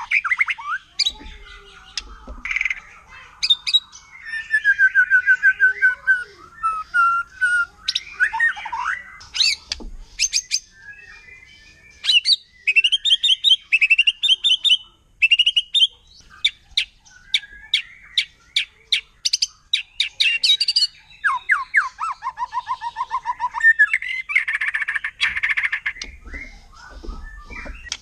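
White-rumped shama singing a long, varied song: whistled phrases, fast trills and runs of sharp, rapid-fire notes, with hardly a pause.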